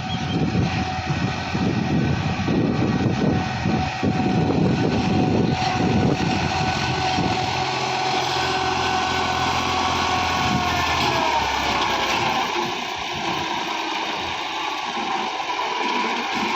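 Massey Ferguson 260 tractor's three-cylinder diesel engine running steadily with a whine over a low rumble. About eleven seconds in, the whine glides down in pitch and the rumble fades as the engine slows.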